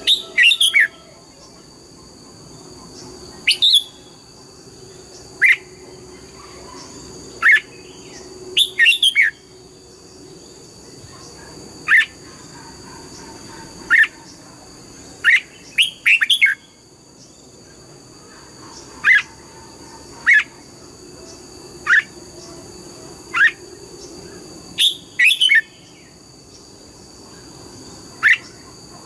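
Red-whiskered bulbul calling: short, sharp, falling chirps, some single and some in quick clusters of two or three, repeated every one to two seconds. Two faint steady high tones run underneath.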